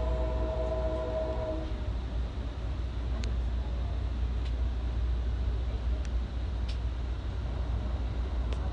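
Steady low rumble of a passenger train running, heard from inside the coach, with the locomotive horn sounding a steady multi-note chord for about the first two seconds before cutting off. A few faint clicks follow later.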